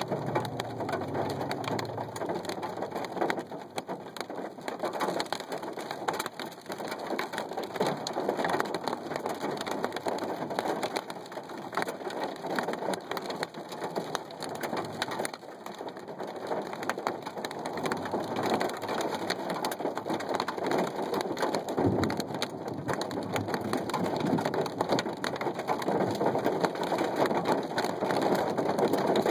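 Heavy rain pattering steadily as a dense hiss of drops, growing louder near the end. A low rumble fades out in the first couple of seconds.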